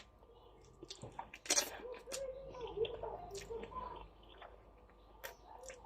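Wet mouth sounds of someone eating stir-fry noodles: chewing and slurping, with scattered small clicks and one louder slurp about a second and a half in.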